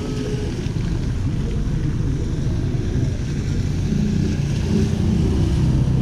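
Steady street noise on a rainy night: the low rumble of passing vehicle engines under an even hiss of rain.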